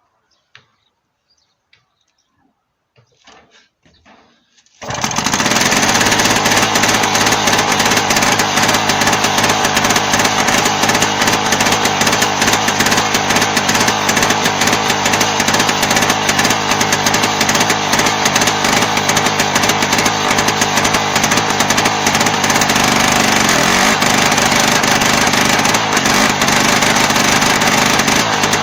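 Diesel engine of a T-74 crawler tractor running loud and steady, with a fast even clatter, cutting in abruptly about five seconds in after a few seconds of near quiet with faint small sounds.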